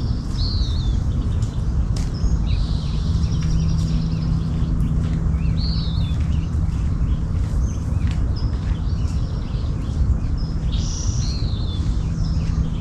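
Small birds chirping and calling again and again, with a short buzzy trill about two seconds in and another near the end, over a loud steady low rumble and a faint hum.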